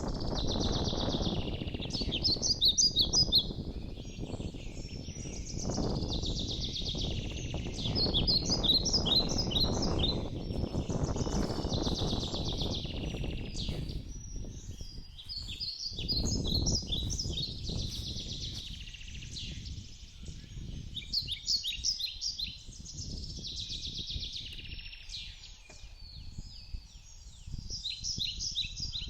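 A songbird singing the same short phrase over and over, a hiss-like run followed by a string of quick high notes, about every four seconds. A low rumbling noise lies underneath for the first two-thirds and then dies away.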